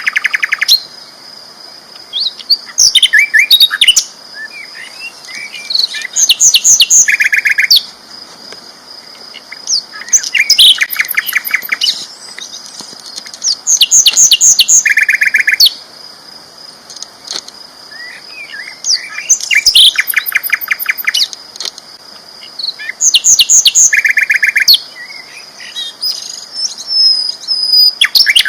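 A sikatan londo flycatcher singing loudly and continuously. It repeats phrases of rapid, evenly spaced notes and chattering trills every three to four seconds, with a quieter stretch of short chips about halfway through.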